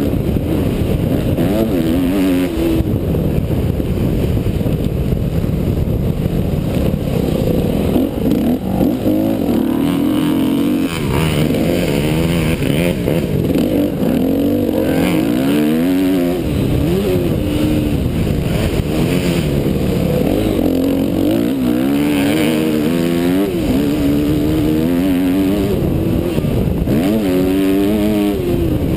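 Motocross bike engine revving up and down over and over as it is ridden hard, its pitch climbing and dropping with the throttle and gear changes.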